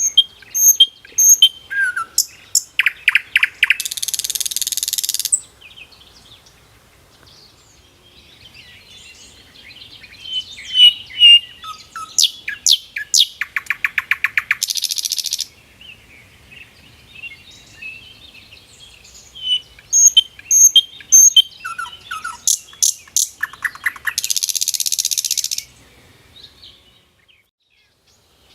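Songbird singing the same phrase three times, each a run of sharp high notes and fast trills that ends in a harsh buzz lasting about a second, with softer chirps between the phrases.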